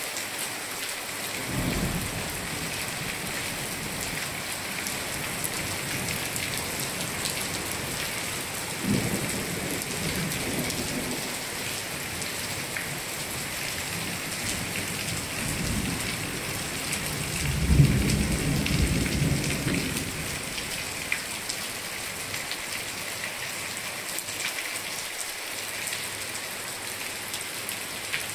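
Heavy rain falling steadily, with thunder rumbling three times; the longest and loudest rumble comes about two-thirds of the way through.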